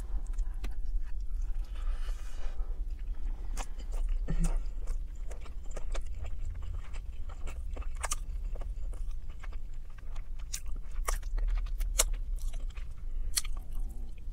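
A person biting into and chewing roasted chicken, with frequent short wet mouth clicks and smacks.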